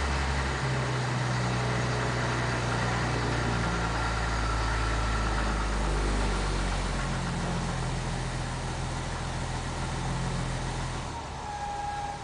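1947 International Harvester KB-1's unrebuilt Green Diamond 214 cubic-inch engine idling cold, settling back down after being run up to 1500 RPM. Its note shifts a couple of times and drops lower about eleven seconds in.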